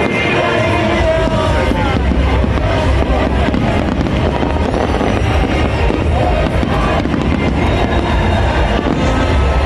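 Fireworks bursting and crackling over loud music, with a deep rumble underneath.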